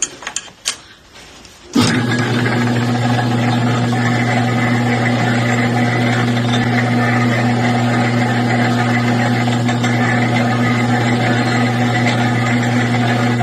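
A few light clicks, then about two seconds in a steady electric motor hum starts abruptly and runs on at an even pitch.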